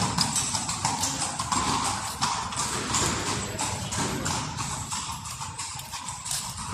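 A steady clip-clop of hard knocks on stone, a few each second, over a faint steady hiss.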